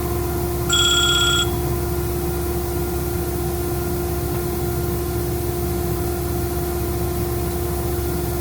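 Ingersoll Rand 50 hp rotary screw air compressor running steadily, a constant hum with a steady tone. A short electronic beep sounds about a second in.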